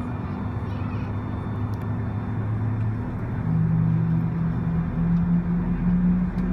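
Airport ramp noise: a steady mechanical rumble with low droning tones, one of which steps up in pitch and grows louder about three and a half seconds in.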